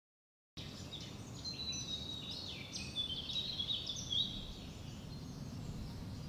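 Birds chirping and twittering, busiest in the middle, over a steady low background noise; the sound cuts in abruptly about half a second in after a moment of silence.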